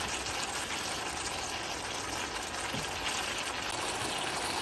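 Vegetables and sausages sizzling in a cast-iron skillet: a steady, even hiss.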